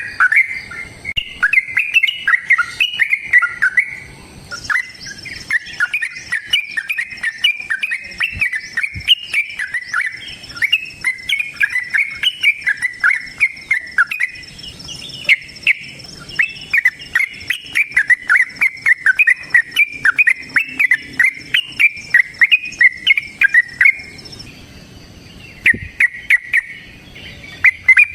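Yellow-vented bulbul (trucukan) singing a long, fast, chattering song of bubbly phrases, with a brief pause shortly before the end. A faint steady high-pitched buzz, like an insect, runs beneath most of it.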